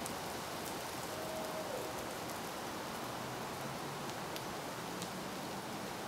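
Steady rain-like hiss of outdoor background noise, with a faint short high tone about a second in that drops away at its end.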